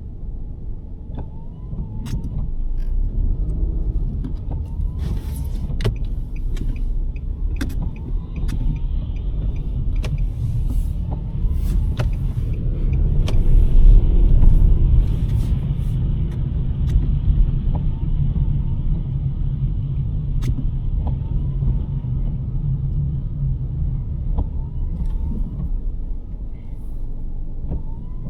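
A 2023 Nissan Sentra driving on snowy roads: steady low road rumble and engine hum, swelling for a few seconds around the middle. A short rising chirp repeats about every two seconds, and scattered sharp clicks come and go.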